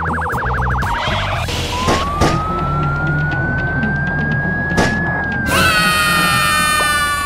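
Siren: a fast warbling yelp for about a second and a half, then a slow wail that rises and falls, over a low steady rumble. About five and a half seconds in, a loud steady tone of several notes joins in.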